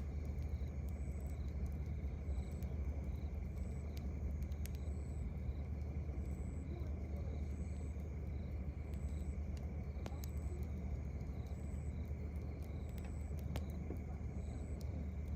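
Campfire crackling with scattered sharp pops, while a cricket chirps steadily a little more than once a second over a low, steady rumble.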